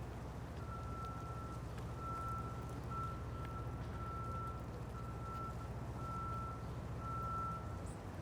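A vehicle's reversing alarm beeping in one steady tone, about eight beeps of under a second each, over a low engine rumble.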